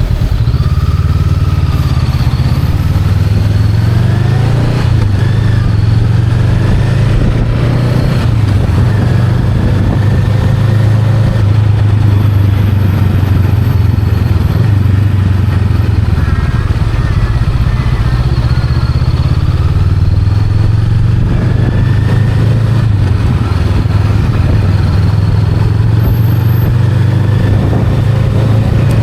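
Honda Rebel 500's 471 cc parallel-twin engine running steadily under way. The engine note eases off for a few seconds past the middle, then picks up again.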